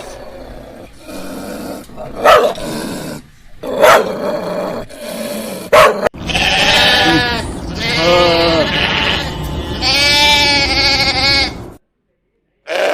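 A dog barking a few times, sharp and well spaced. About six seconds in come three long, wavering animal calls.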